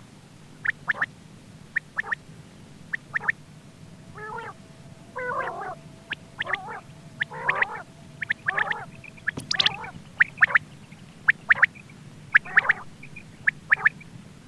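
Quail calling over and over: short, sharp notes in quick groups of two or three, with a few lower, warbling, gurgling calls near the middle. A faint steady hum runs underneath.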